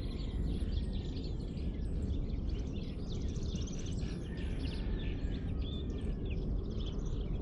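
Dawn chorus of many small birds chirping and singing at once, over a steady low rumble.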